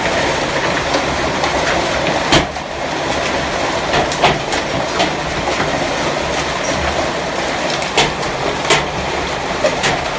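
Hail coming down hard: a dense, steady clatter of hailstones with sharper, louder strikes standing out irregularly, about once a second.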